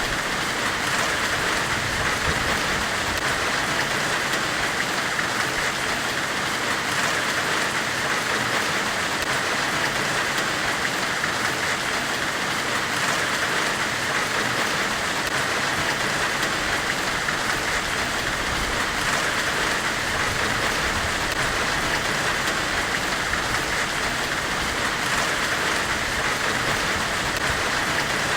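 Steady, unbroken hiss of white noise, brightest in the upper middle range, with no strikes or changes.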